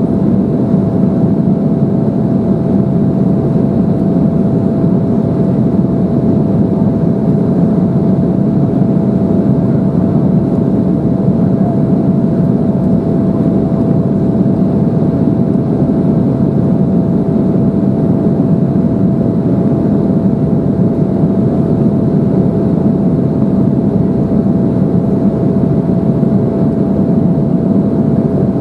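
Steady cabin noise inside an Embraer 175 airliner in flight, the hum of its CF34 turbofan engines and rushing air, with one faint steady tone held above it.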